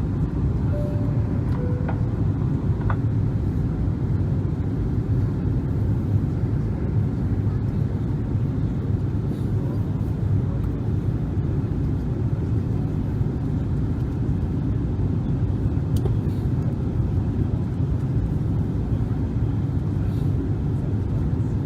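Steady cabin noise of a Boeing 777-300 airliner on its landing approach: a constant low rumble of engines and airflow heard from inside the passenger cabin. About a second in there is a short two-note falling tone.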